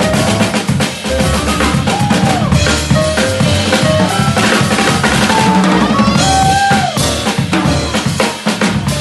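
Jazz trio playing live, led by a busy drum kit with rapid snare, bass-drum and cymbal hits, with piano notes and bass underneath.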